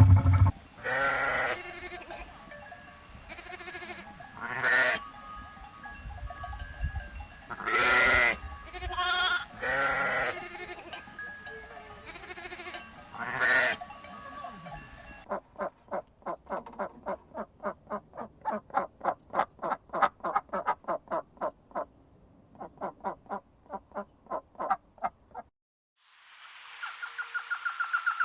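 Farm animals bleating: about seven separate calls over the first half. Then comes a fast, even run of short pulsed calls, about four or five a second, lasting around ten seconds before it stops.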